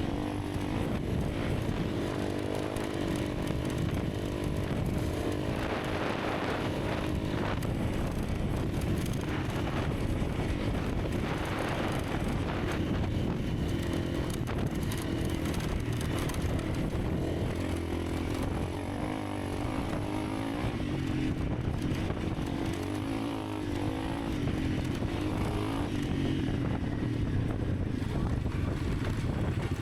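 Honda CRF300 Rally's single-cylinder engine running steadily at an even cruising speed.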